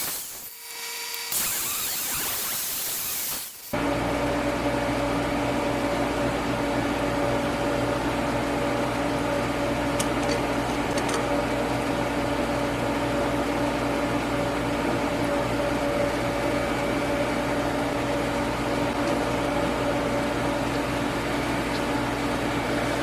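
A steady electrical machine hum with a constant low buzz and a steady mid-pitched tone. About three seconds in it abruptly replaces a short hiss.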